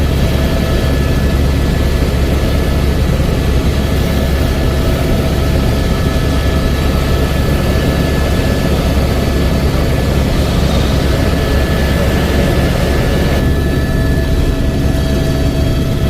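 Helicopter in flight: a loud, steady low drone of engine and rotor with a few steady high whining tones over it. The higher part of the noise drops a little about three quarters of the way through.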